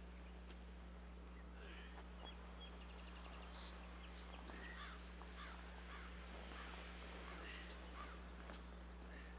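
Faint bird chirps and calls, with a quick trill about three seconds in and a short falling whistle near seven seconds, over a steady low electrical hum.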